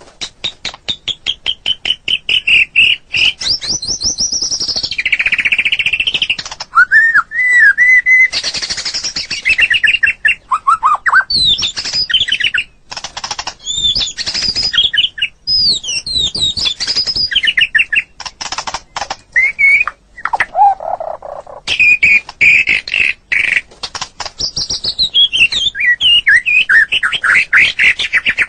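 White-rumped shama (murai batu) singing a long, varied song: clear whistles, fast chattering runs of repeated notes and quick rising and falling glides, in phrases separated by short pauses.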